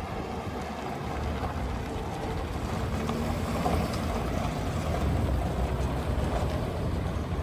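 Ford F-550 truck engine idling with a steady low rumble.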